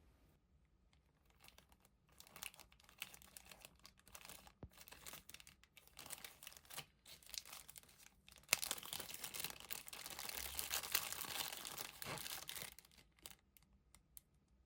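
Close crinkling and tearing of a thin crinkly material being handled, in irregular crackles that turn into a dense, louder stretch of about four seconds past the middle.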